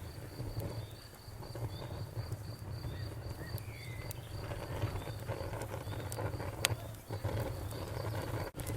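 Bonfire crackling with scattered sharp pops, one louder snap about two-thirds of the way through, over a low rumble. Crickets chirp in a fast, even rhythm.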